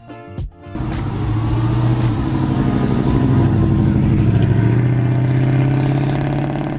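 A car engine running loudly with a deep, even rumble. It starts under a second in, swells over the next two seconds and then holds steady.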